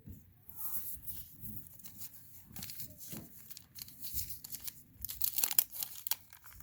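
Wax-paper wrapper of a trading-card pack being torn open and crinkled by hand, a run of crackling that gets louder about five seconds in.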